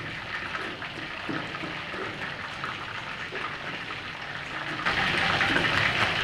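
Blanched chicken wings deep-frying in hot oil: a steady sizzle that grows louder about five seconds in.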